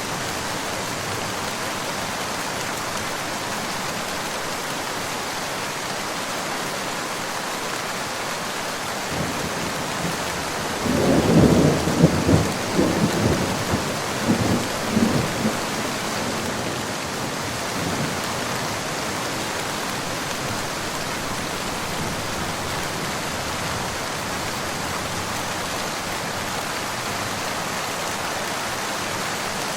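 Steady rain falling, with a peal of thunder about ten seconds in that rumbles in several rolling surges for some five seconds before fading back into the rain.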